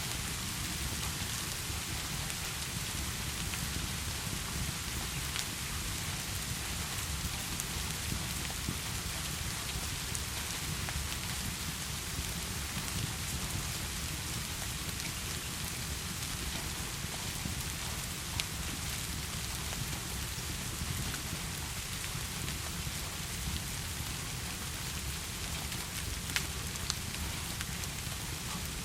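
Steady heavy rain, an even unbroken hiss, with a few sharp clicks: one midway and two in quick succession near the end.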